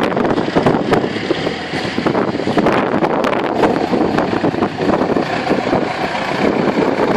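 Tractor engines running, with wind buffeting the microphone.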